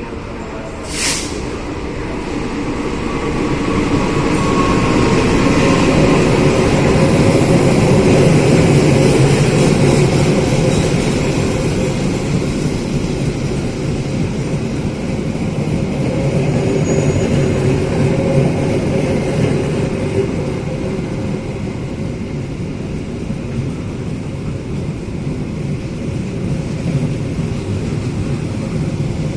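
A train passing through a station, rumbling louder over the first several seconds and then running steadily. A single sharp click about a second in.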